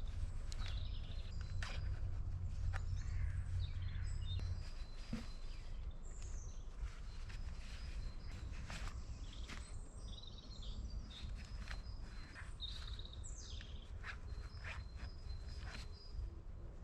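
Wild birds chirping in short, high calls, over a low rumble that drops away about four and a half seconds in, with scattered clicks and knocks.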